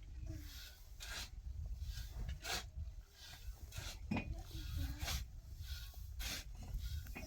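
Rhythmic scraping or rasping strokes, about one every 1.3 seconds, over a steady low rumble.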